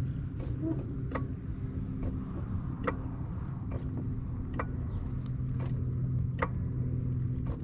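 Car engine idling with a steady low hum, heard from inside the car, with a sharp click repeating about once a second.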